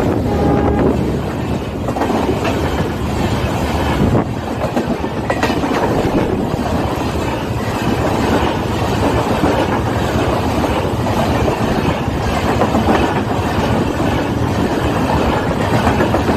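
Tejas Express train passing close by at speed: a steady loud rumble of wheels on rails, with clickety-clack over the rail joints. The last of a horn note fades out in the first second.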